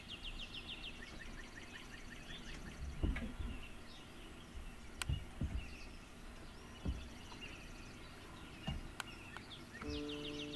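Outdoor ambience with songbirds singing and chirping, including a fast trill at the start and again near the end, and a few soft low thumps. Steady held musical tones come in just before the end.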